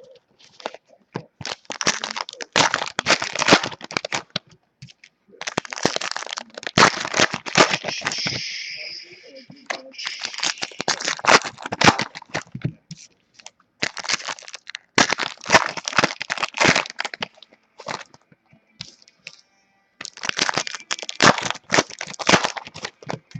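Foil trading-card pack wrappers crinkling and crackling as they are torn open and handled. The sound comes in about five bursts of a few seconds each.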